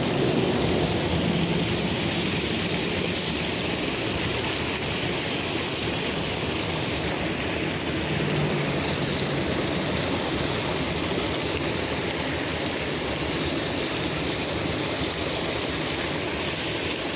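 Steady rush of creek water spilling over a small dam.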